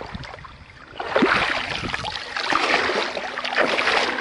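Water splashing and sloshing in shallow water, starting about a second in and continuing in irregular bursts.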